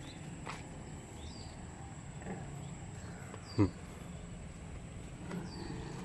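A few faint high bird chirps, each a short downward call, over a steady low hum, with one brief loud low sound a little past halfway.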